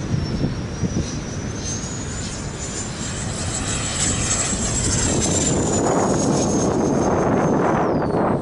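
Whine of a 105 mm electric ducted fan on a model jet flying past. The high whine climbs in pitch and gets louder through the middle, then falls away near the end, with wind rumble on the microphone underneath.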